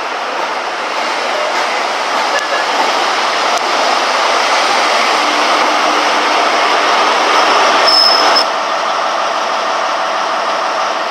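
Class 43 HST power car running into the platform: rumbling wheel and engine noise that builds, with a short high brake squeal about eight seconds in. It then drops abruptly to a steadier, quieter sound.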